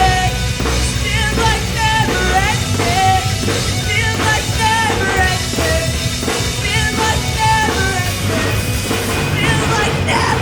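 Live student rock band playing loudly: distorted guitars, bass and drum kit with a lead singer over them.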